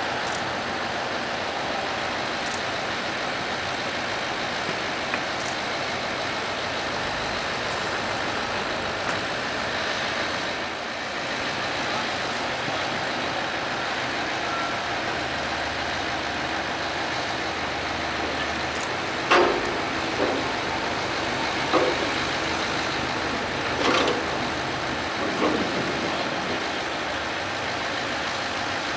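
Steady running of a heavy engine, with a handful of short, sharp knocks about two-thirds of the way through.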